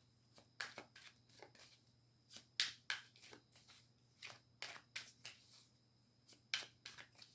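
A deck of reading cards being shuffled and handled by hand: quick, crisp flicks and slaps of card stock in irregular clusters of two or three.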